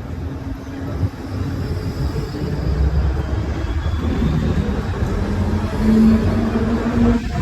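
A motor vehicle running: a low engine rumble with a steady droning hum that grows louder about six seconds in.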